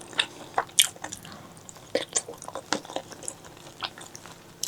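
Close-miked wet chewing and mouth smacks from eating spicy pork leg curry, with a scatter of sharp, sticky clicks at an uneven pace.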